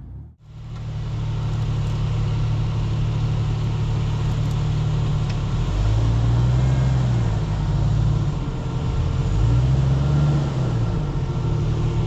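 Off-road 4x4's engine running at low revs while crawling over rough trail, revving up and easing back down twice, about six and ten seconds in.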